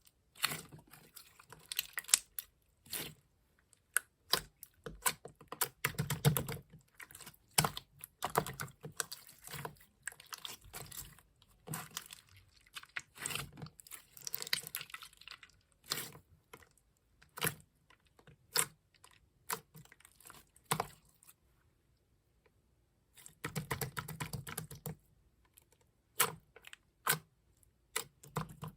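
Fingers tapping quickly and unevenly on an iPhone's touchscreen keyboard while typing, in runs of taps with short pauses and a gap of about two seconds near the end.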